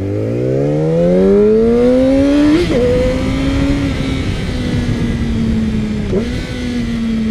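Yamaha R6's inline-four engine pulling away under acceleration. Its pitch climbs steadily for about two and a half seconds, then drops sharply on an upshift and holds a steady, slowly falling note. A second brief dip comes about six seconds in, at the next gear change.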